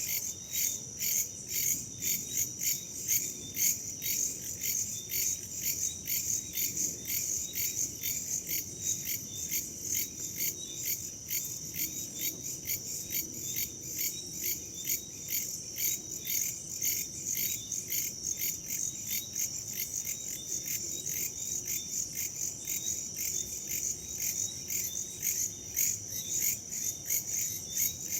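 Crickets chirping in a steady, rapid train of high-pitched pulses, several a second, unbroken throughout.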